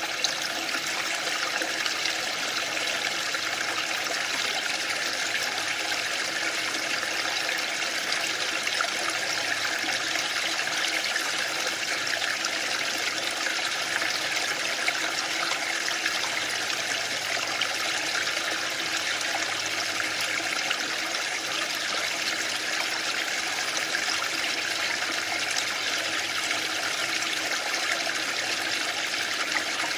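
Waterfall: a steady, unbroken rush of falling water, an even hiss with no swells or pauses.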